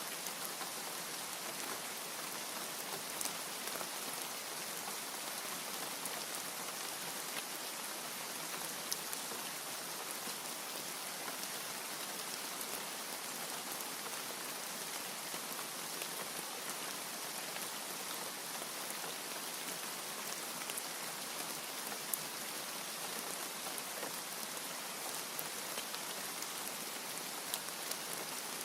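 Steady rain falling, with scattered sharper ticks of single drops and no thunder.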